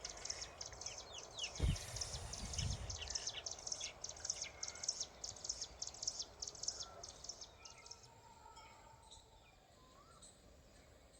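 Small birds chirping in a rapid run of short, high chirps that thins out and fades about seven seconds in, over a faint outdoor background. A low thump sounds about a second and a half in.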